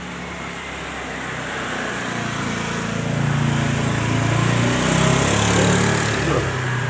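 A small engine, such as a passing motorbike, getting steadily louder to a peak about five to six seconds in and then starting to fade.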